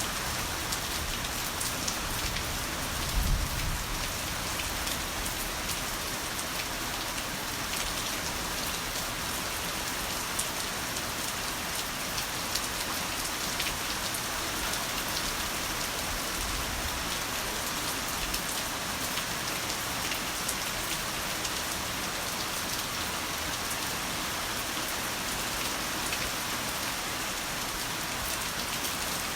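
Heavy rain falling steadily, a dense even patter. About three seconds in there is a brief low thump.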